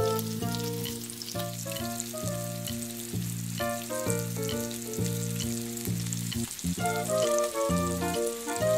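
Oil sizzling and crackling in a miniature wok as chopped onion fries, then raw chicken pieces are tipped in and stirred. Background instrumental music with a melody of notes changing several times a second plays over it.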